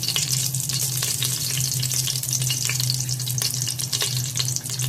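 Spices frying in hot ghee in a pressure cooker: a steady sizzle with fine crackling, over a low steady hum.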